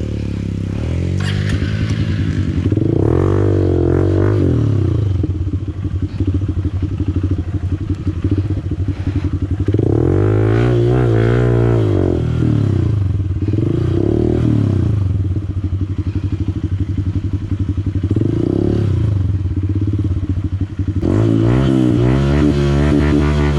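Honda CRF150L's single-cylinder four-stroke engine being revved up and down in repeated surges as the bike is ridden. About three seconds from the end it holds a steadier, higher note.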